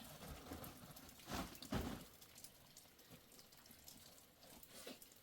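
Faint patter of raindrops and drips, with two soft thuds a little over a second in.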